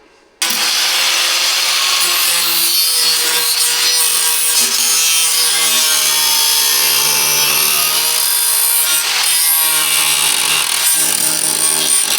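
Power tool cutting into the car's sheet-metal bodywork. It starts abruptly about half a second in and runs steadily, with a rasping noise and a whine that shifts in pitch.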